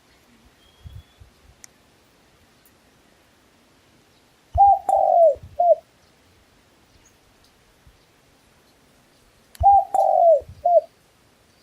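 A dove cooing: two identical phrases about five seconds apart, each a short note, a longer falling note and a short final note.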